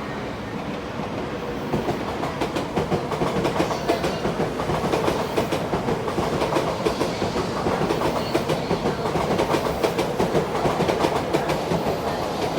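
Electric train running along the track, its wheels clattering rapidly over the rail joints. The clatter grows louder about two seconds in.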